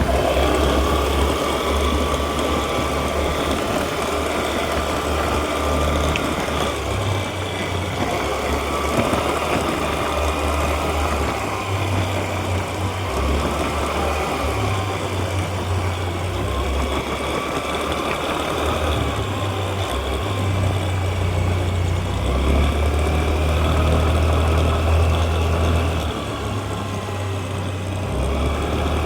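Honda Activa 125 scooter's single-cylinder four-stroke engine running, with a higher tone over the engine note that rises and falls every couple of seconds. This is the abnormal noise that appeared on the new scooter within its first weeks.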